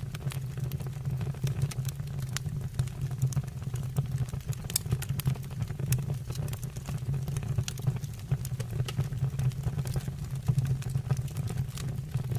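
Wood fire burning in a stove or fireplace: frequent sharp crackles and pops, irregularly spaced, over a steady low rumble.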